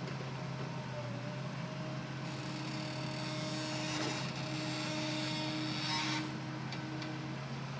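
Hitachi Zaxis excavator running with a steady engine drone and whining tones. A hiss joins from about two seconds in until about six seconds in.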